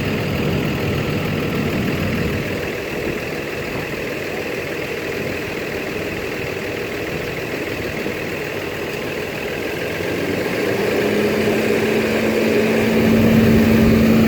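School bus engines idling, with a broad rushing noise over them. About eleven seconds in, a steady hum joins and the sound grows louder.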